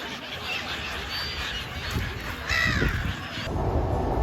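A flock of gulls calling, many overlapping harsh calls with the loudest cluster about two and a half seconds in. Near the end the calls stop abruptly and give way to a steady low rumble.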